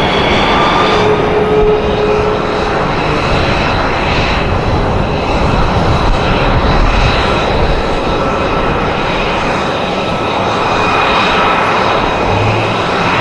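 Aircraft engine noise from a plane in flight: a steady dense rush with faint whining tones over it, and a low hum coming in near the end.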